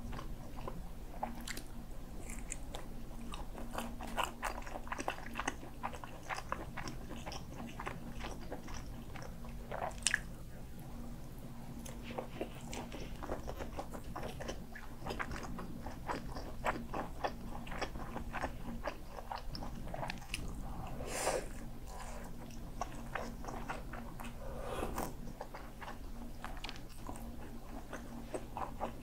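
Close-miked eating sounds: biting into roast sausage and chewing it, with a dense run of small wet mouth clicks and a few louder ones, and a spoonful of kimchi stew taken near the end. A faint steady low hum sits underneath.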